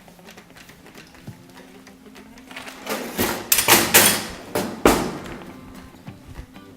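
Kitchen noise while chicken deep-fries: a burst of loud crackling and several knocks, about three to five seconds in, over a low steady hum.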